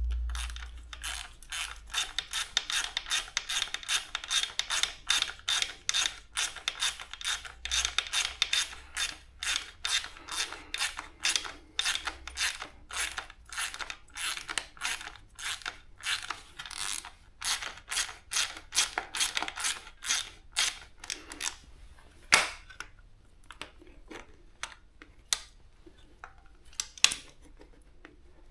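Hand ratchet wrench worked back and forth, a steady run of sharp clicks a few times a second. About 21 seconds in it thins to a few scattered clicks, one of them louder.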